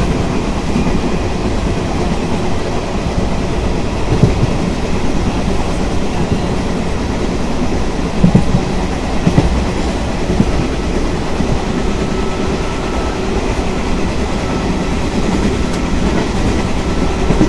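A moving Indian Railways passenger train heard from its open doorway: a steady rumble and clatter of wheels on the rails, with a few louder knocks about four, eight and ten seconds in.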